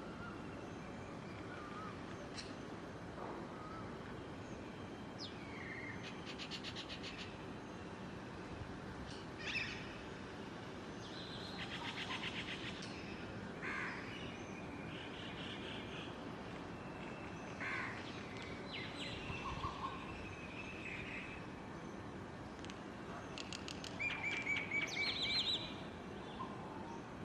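Small birds calling in short chirps and quick trills, scattered through, over a steady background hum. The loudest is a run of rapid trilled notes near the end.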